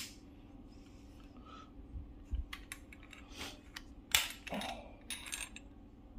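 Small metallic clicks and knocks of a stiff new retaining clip being worked into a pipe connection on a boiler's flow manifold, irregular, with the sharpest click about four seconds in.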